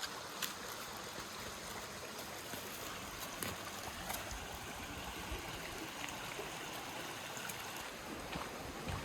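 Running water of a mountain creek, a steady even rush, with a few faint light clicks over it.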